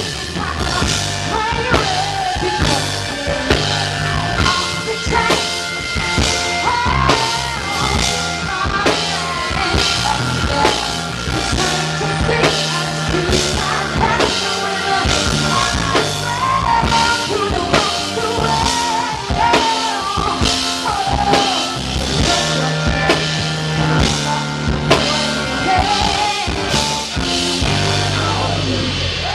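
Live rock band playing: a drum kit keeping a steady beat under bass and a singing voice, until the song ends near the close.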